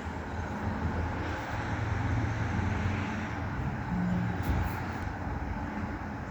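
Car driving slowly, heard from inside the cabin: a steady low engine and road rumble that swells slightly two to three seconds in.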